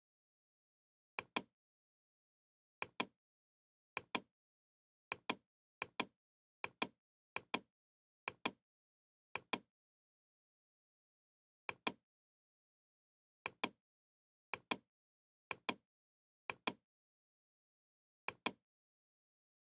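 Sharp double clicks, each pair two quick clicks close together, repeated about fifteen times at uneven intervals with dead silence between.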